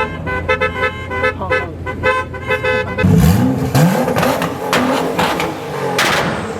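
A car horn honking in a rapid string of short toots for about three seconds, then a car engine revved hard several times, its pitch climbing with each rev.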